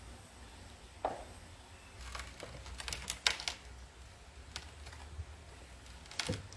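Hard clinks and knocks of glaze-fired pottery handled as it is taken out of a wood-fired kiln: one ringing clink about a second in, a quick run of clicks around the middle, and a couple more near the end.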